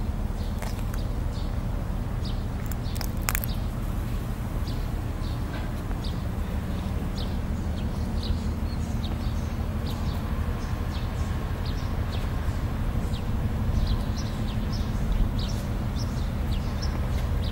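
Birds chirping: many short, thin, high chirps repeating irregularly, more of them in the second half, over a steady low background rumble. A single sharp click sounds about three seconds in.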